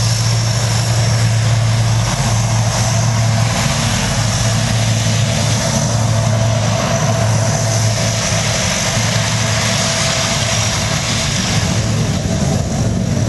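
Steady, loud engine noise: a constant low hum under a broad hiss that holds the same pitch throughout.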